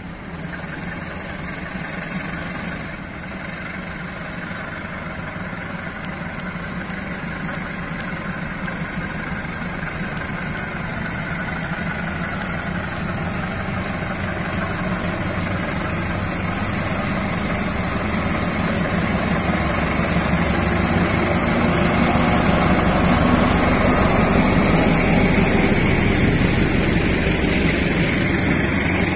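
Diesel-electric locomotive of a KAI passenger train approaching and passing, its engine rumble growing steadily louder. The noise is loudest near the end as the locomotive goes by and the coaches roll past on the rails.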